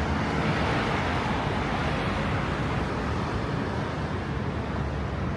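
Steady road traffic noise: a continuous hum of passing vehicles.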